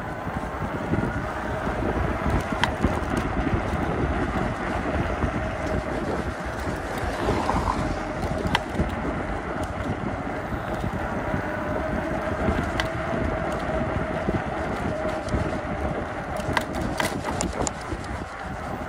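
Riding noise from an electric bicycle in the rain: wind buffeting the microphone and tyres on a wet road, with a faint steady whine and scattered sharp clicks.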